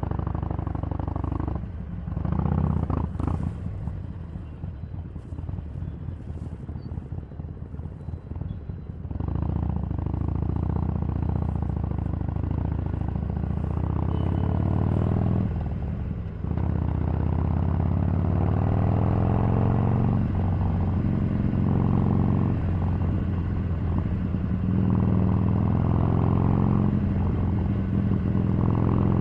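Harley-Davidson 883 Sportster's air-cooled V-twin running at low revs, then pulling away with rising revs about a third of the way in, a short break for a gear change, and steady cruising after.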